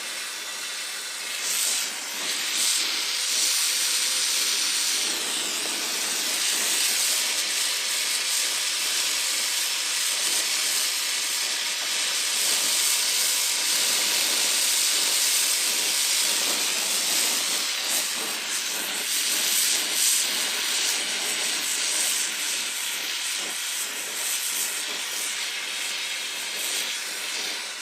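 Brazing torch flame hissing steadily while heating a copper refrigerant-line joint as silver solder is flowed into it.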